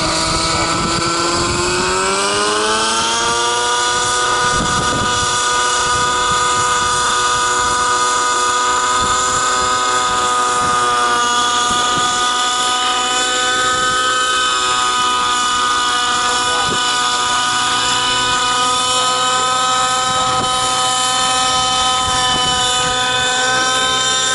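RC helicopter's motor and rotor whine; the pitch rises over the first few seconds and then holds steady.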